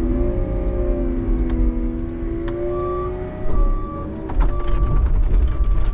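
Plow truck's engine running and revving, its pitch rising and falling. About three seconds in, a backup alarm starts beeping about once a second, with a short run of clattering knocks just after.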